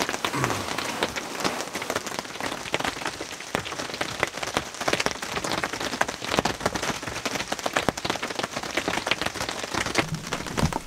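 Rain drumming on the roof and walls of a cardboard tent, heard from inside: a steady patter thick with sharper taps of single drops hitting the cardboard.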